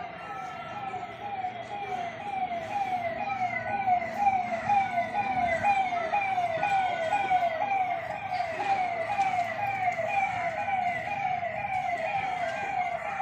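Electronic siren sounding a rapidly repeating falling tone, about three falls a second, steady throughout.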